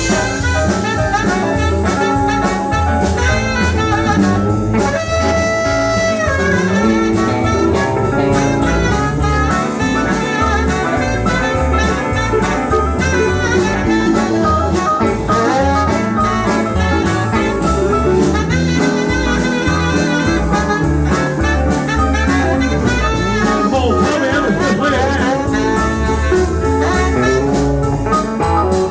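Country band playing an instrumental break with a steady drum beat and lead instruments, without singing.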